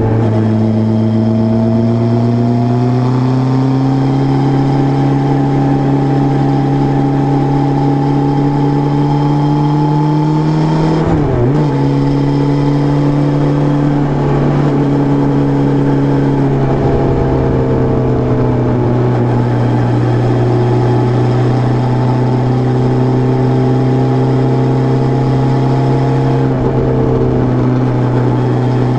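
Suzuki Bandit 600's 599 cc air/oil-cooled inline-four engine running at fairly steady revs, the note rising slightly in the first few seconds. About eleven seconds in the revs drop briefly and come straight back up, with smaller pitch shifts later.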